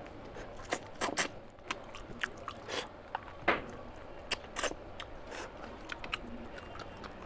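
Close-miked eating: a man chewing and biting with his mouth open, making wet smacks and crunchy clicks at an irregular pace.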